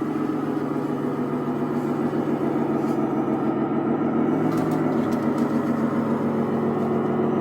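A radio-controlled scale Scania truck's electronic sound unit plays a steady, idling truck-engine sound. A few faint ticks come through about halfway.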